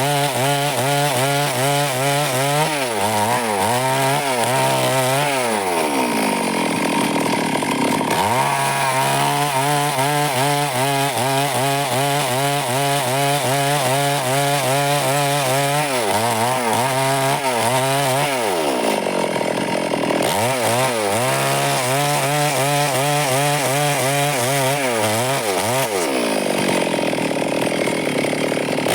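Stihl chainsaw running hard while cutting wood, its engine pitch sagging and climbing back several times.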